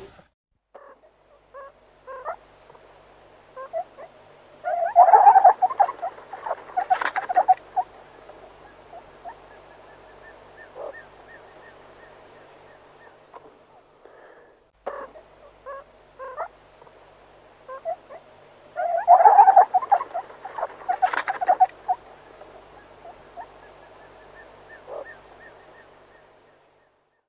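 Animal calls: a run of short squeaks and yelps with a louder cluster of calls in the middle, the whole sequence heard twice over.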